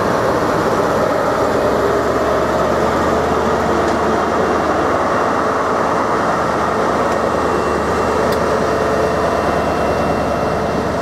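Train running steadily past or through the station: a loud, continuous rumble of engine and rail noise without a clear rhythm, easing slightly near the end.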